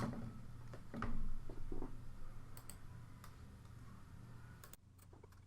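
Scattered clicks of a computer mouse and keyboard over a steady low hum, with a louder knock about a second in.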